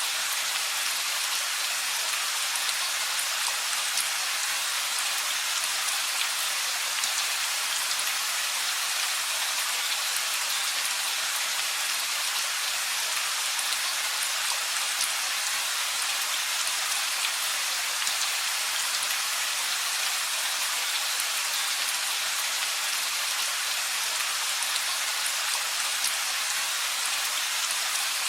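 Steady rain falling, an even hiss with many small drop patters and no thunder.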